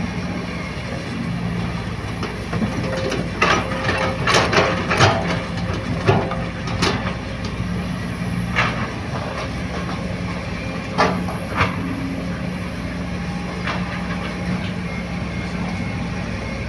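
Heavy diesel earthmoving machinery running steadily. A rapid run of clanks and knocks comes about three to seven seconds in, with a few single knocks later.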